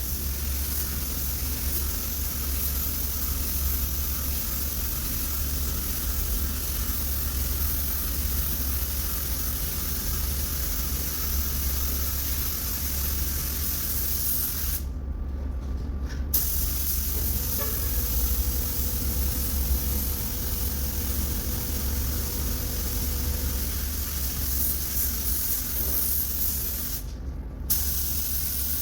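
Compressed-air paint spray gun hissing steadily, cut off twice when the trigger is released: once for about a second and a half around halfway through, and once briefly near the end. A steady low hum runs underneath.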